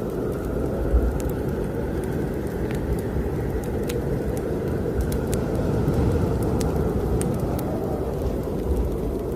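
Wood fire crackling in a fireplace with scattered sharp pops, over a steady low rush of strong snowstorm wind.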